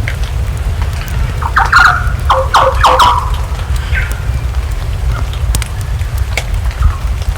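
Rain-and-fireplace ambience: a steady low rumble with sharp crackling pops from the burning wood. A short run of duck quacks comes about a second and a half in, with one more call near four seconds.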